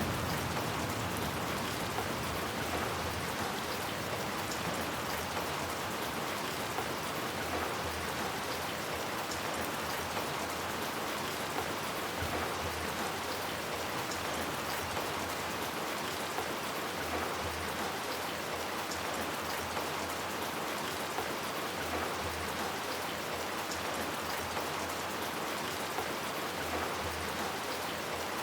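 Steady heavy rain falling on hard surfaces, a constant even hiss with faint patter of individual drops.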